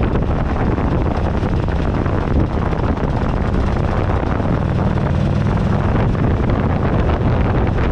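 Wind buffeting the microphone of a handlebar-mounted camera over a 2008 Buell Ulysses XB12XT's air-cooled V-twin engine running on the road. The engine's low steady note shows through more clearly about five seconds in.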